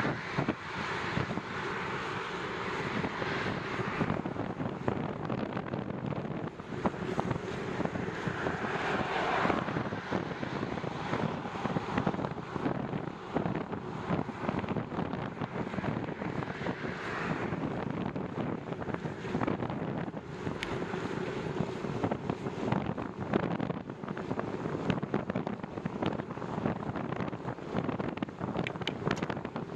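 Wind buffeting the microphone while cycling into a strong, gusty wind, a steady rushing rumble that swells and fades.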